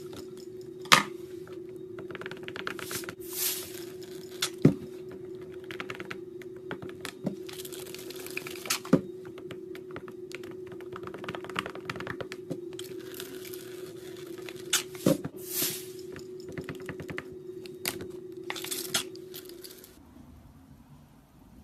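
Slime being handled by hand: irregular crackles, squelches and sharp pops as it is pressed and stretched, over a steady low hum that stops shortly before the end.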